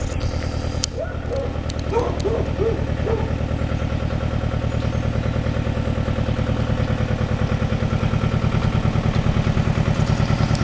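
A tractor engine running steadily with an even, rapid pulse. A dog barks in a quick run of several barks, about two seconds in.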